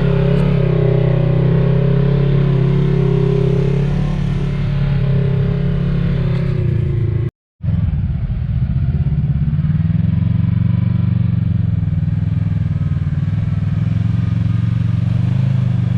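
Side-by-side UTV engine running at fairly steady revs, pulling through the dirt. The sound cuts out completely for a moment about halfway through.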